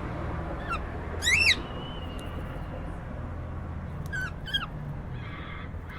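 Cockatiel chirping: a faint short call, then a loud rising-and-falling call about a second in, and two quicker chirps about four seconds in, over a steady low hum. A short scratchy rustle comes near the end.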